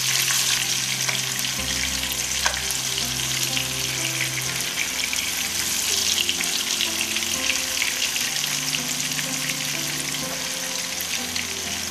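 Oil sizzling and crackling steadily as red chilies, shallots, garlic and tomatoes fry in a wok until wilted for a spice paste, with a silicone spatula stirring through them now and then. Soft background music with low held notes runs underneath.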